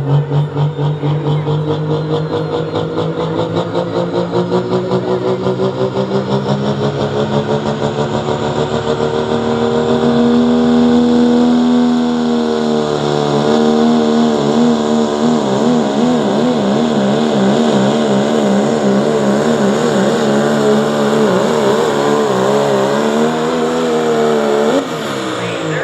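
Turbo-diesel pickup truck engine at full throttle, pulling a weight-transfer sled. Its pitch climbs slowly for about the first twelve seconds, then wavers rapidly up and down, and the level drops suddenly just before the end as the throttle comes off.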